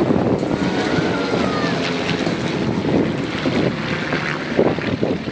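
Propeller aircraft engines droning steadily as planes fly past, with wind buffeting the phone's microphone.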